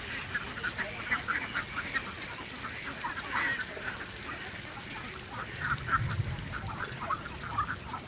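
A flock of farm poultry calling, many short overlapping calls throughout, with a brief low rumble about six seconds in.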